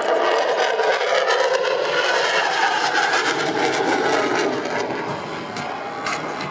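F-16C fighter jet's engine heard during a display pass: a loud, steady rushing noise whose pitch shifts slowly, easing off a little near the end.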